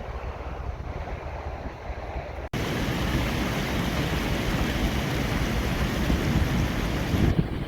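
Outdoor wind noise on the microphone mixed with the rush of water, a steady noisy hiss and rumble. It jumps abruptly louder and brighter about two and a half seconds in and drops back near the end, as the shots change.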